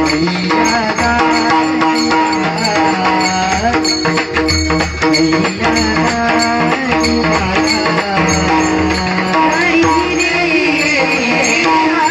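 A woman singing, accompanied by tabla and other instruments.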